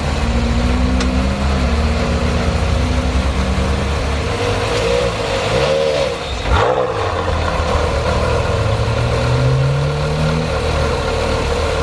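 Porsche Carrera GT's 5.7-litre V10 running at a steady idle, with the engine pitch briefly rising and falling around five to seven seconds in, like quick throttle blips, and a slower rise near ten seconds.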